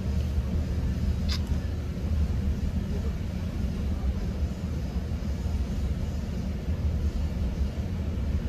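Diesel-hauled GO Transit commuter train running between stations, heard from inside a passenger coach: a steady low rumble from the wheels and running gear. A brief high squeak cuts through about a second in.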